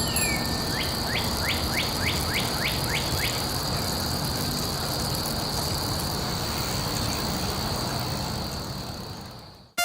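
Steady background noise with a high steady tone over it. About eight quick falling chirps sound in the first three seconds, and it all fades out near the end.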